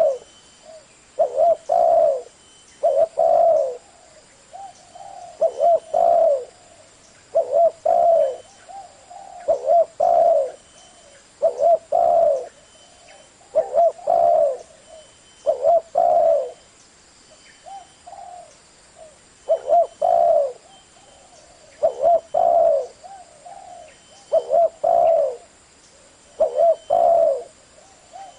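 Spotted dove cooing, its low two- and three-note song phrase repeated about every two seconds.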